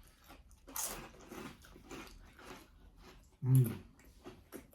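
Chewing and mouth sounds of people eating sandwiches, with a brief rustle about a second in and a short, loud vocal sound about three and a half seconds in.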